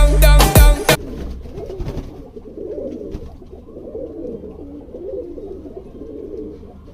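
Music with a heavy beat cuts off about a second in, leaving domestic pigeons cooing: low, wavering coos with a few faint clicks.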